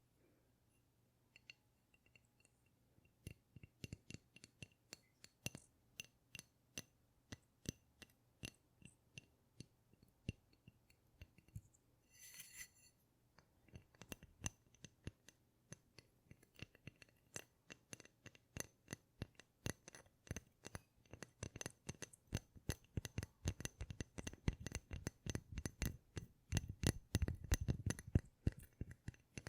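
Close-up ASMR tapping and clicking on small hard objects: light sharp clicks and clinks with a slight ring, sparse at first, then faster and denser from about halfway. A brief scratchy rustle comes about twelve seconds in.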